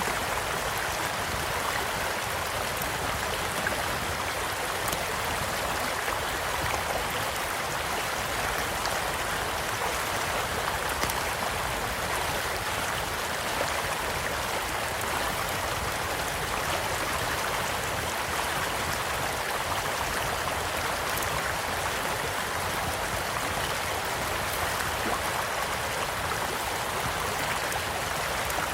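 Small stream flowing steadily, with scattered faint crackles and pops from a wood campfire.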